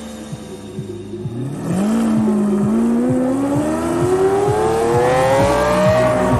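A sports car engine accelerating hard, its pitch climbing steadily from about a second and a half in, then dropping suddenly at the very end. Regular low thuds, about two a second, run underneath.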